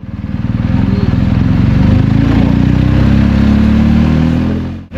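BMW R 1250 GS Adventure's boxer-twin engine running as the bike rides, its note rising as it accelerates in the second half. The sound fades in at the start and drops away sharply just before the end.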